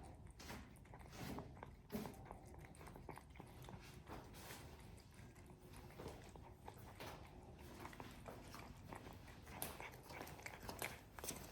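Faint, irregular crunching and chewing of a cat eating, soft clicks coming a few times a second and growing more frequent near the end.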